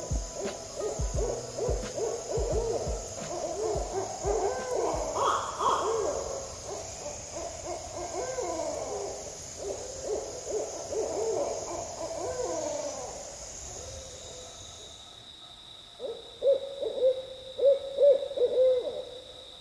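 Barred owls calling back and forth: several overlapping rising-and-falling wails, then a short series of hoots near the end, over a steady high drone of night insects. A few low thumps sound in the first few seconds.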